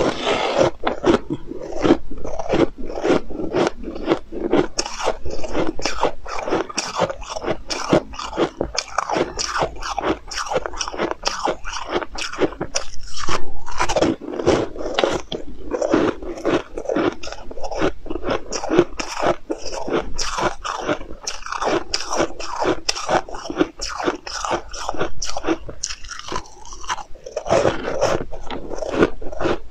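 Close-miked mouth sounds of a person biting and chewing a crunchy snack: rapid, continuous crunches, with a short lull near the end.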